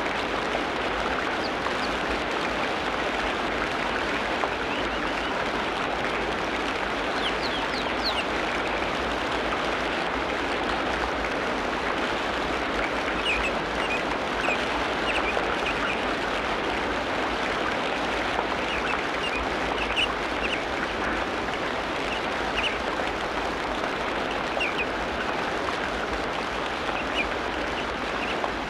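Tropical rainforest ambience: a steady, dense hiss with short bird chirps scattered over it, a few quick rising calls about eight seconds in.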